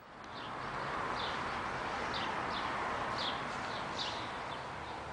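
A bird repeating short high chirps, about two or three a second, over a steady rushing noise that swells in over the first second and fades toward the end.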